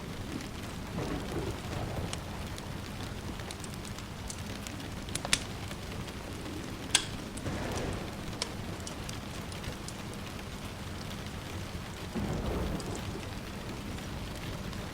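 Steady rain with soft rumbles of distant thunder swelling up about three times, and a few sharp pops from a crackling wood fire, the loudest about five and seven seconds in.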